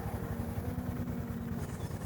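Single-cylinder or small-twin motorcycle engine running at a steady pace while riding, with a rapid, even low beat from its exhaust.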